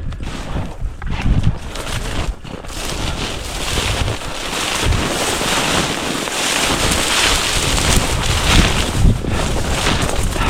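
Wind buffeting the microphone: a steady rushing hiss that builds about three seconds in, over irregular low thumps in the first seconds.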